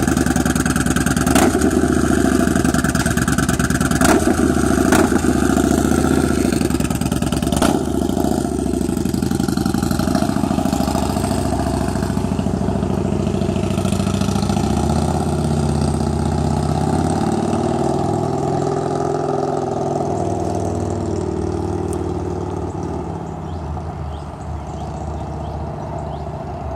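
Engine running through a newly fitted exhaust pipe just after a cold start, with several sharp cracks in the first eight seconds, then settling into a steady idle that grows slightly quieter near the end.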